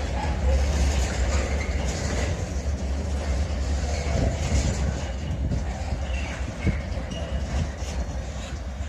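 Train rolling along the track: a steady low rumble with wheel noise and a couple of sharp clicks, slowly fading.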